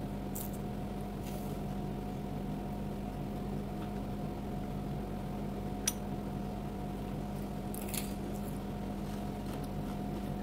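A person chewing crunchy raw vegetables, heard as a few short, faint crunches spread through, over a steady low hum with a constant tone.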